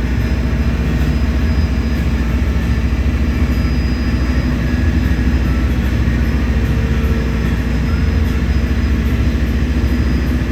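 Lobster boat's engine running steadily underway, a constant low drone.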